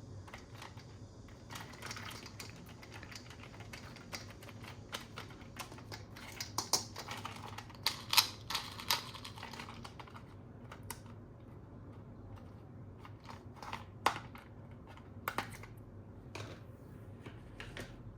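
Hands handling plastic toy parts and packaging: a run of light clicks, taps and rustling, busiest in the middle, with a few sharper knocks later on.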